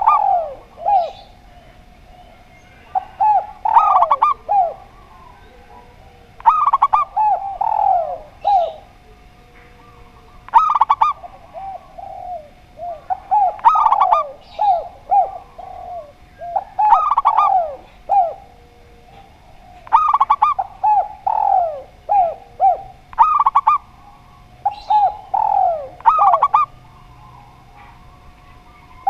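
Doves cooing, either a spotted dove or a zebra dove, in short phrases of quick, falling notes. A phrase comes about every three seconds, with brief pauses between.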